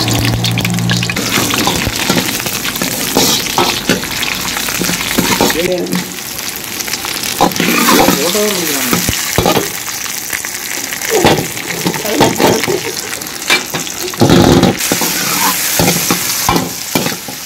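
Sliced onions and chopped tomatoes sizzling in hot oil in a large iron kadai. A long metal ladle scrapes and knocks against the pan as they are stirred.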